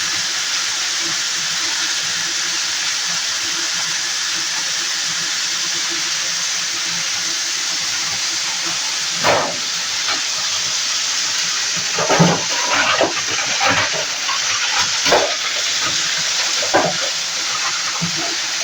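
Plastic cutting grinder running with a steady hiss-like whir. From about halfway, irregular loud cracks and crunches come in as pieces of plastic are chopped.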